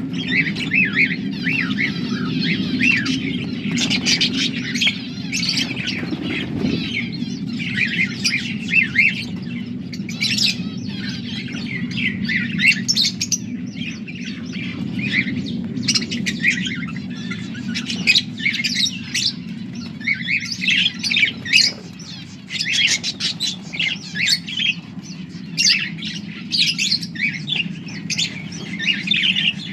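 Several budgerigars chirping and chattering continuously in quick, overlapping short calls, over a steady low hum.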